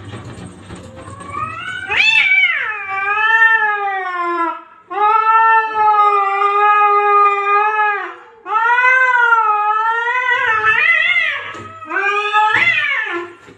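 A cat yowling in several long, wavering calls, one after another, the longest lasting about three seconds.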